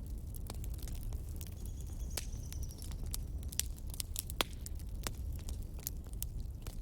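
Wood fire crackling: irregular sharp pops and snaps over a steady low rumble of burning logs, with a faint high whistle for about a second near two seconds in.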